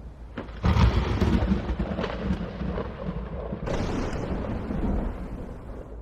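Thunder rumbling over steady rain: a sudden loud clap about half a second in, then a long rolling rumble that swells again a few seconds later.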